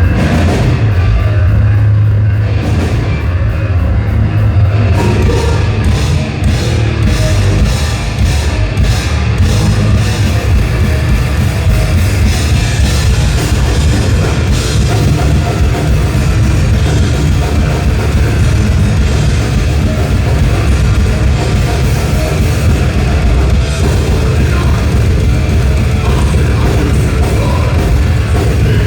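Thrash metal band playing live through a club PA: distorted electric guitars, bass and fast drum kit, loud and dense throughout.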